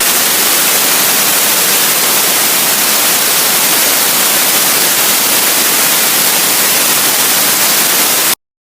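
Loud, steady static hiss, even from low to very high pitch, that cuts off abruptly to silence near the end.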